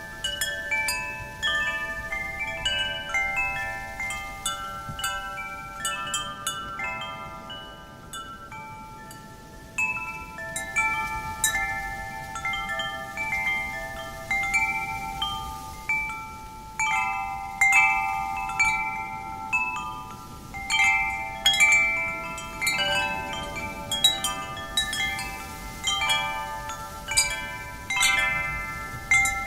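Wind chimes jangling irregularly in the wind, many metal tones ringing out and overlapping, with a soft wind hush beneath. The strikes thin out for a while around a third of the way in, then pick up again and grow more frequent near the end.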